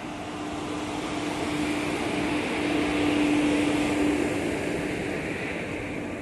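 A train hauled by an Indian Railways WAP-4 electric locomotive rolling past along the platform: a steady hum over wheel-on-rail rumble and hiss, swelling to its loudest about three to four seconds in as the locomotive and coaches pass close, then easing off.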